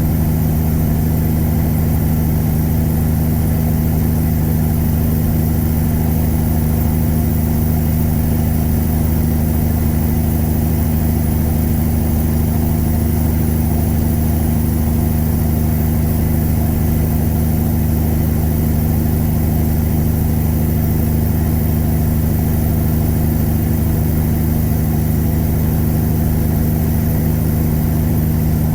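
Tuned Caterpillar 3406E inline-six diesel in a Freightliner Classic truck, running at steady revs as an even drone that holds without change.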